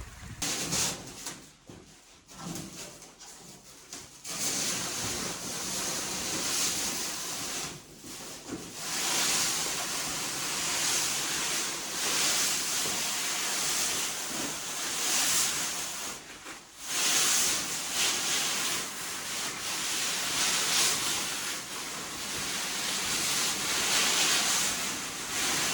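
Rain hissing steadily, rising and falling in level, with a few brief drops.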